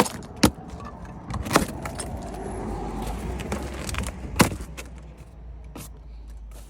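Metal hand tools and car parts clinking and knocking as they are handled, with several sharp clicks and knocks and a low rumble and hiss swelling in the middle stretch.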